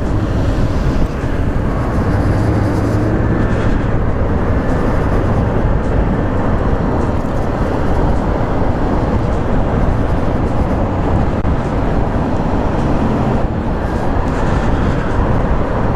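Steady rushing wind and road noise from riding a CSC City Slicker electric motorcycle, with no engine note, only a faint steady hum.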